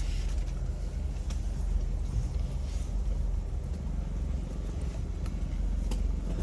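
Jeep Wrangler TJ driving slowly over an off-road trail: a steady low engine and drivetrain rumble, with a few light knocks.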